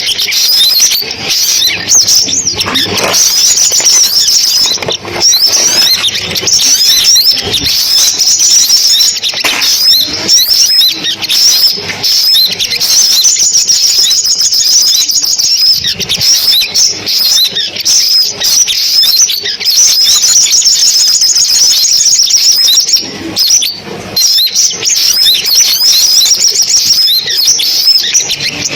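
Sunbirds singing: a dense, unbroken stream of high, rapid chirps and twittering trills. It is lure-call playback of the kind used to draw sunbirds to a loudspeaker trap.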